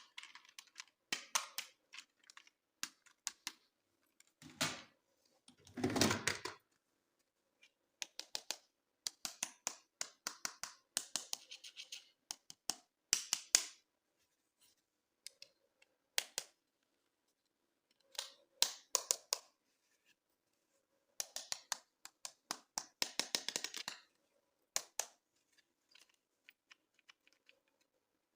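Plastic toys and packaging being handled: sharp clicks and taps mixed with short scratchy rustles, coming in bursts with quiet pauses between them.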